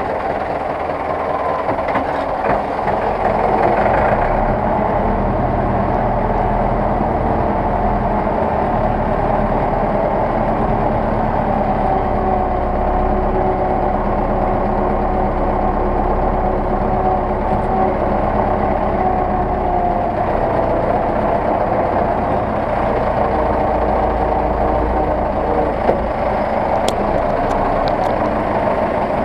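Zetor 6911 tractor's diesel engine running steadily, a little louder from about four seconds in.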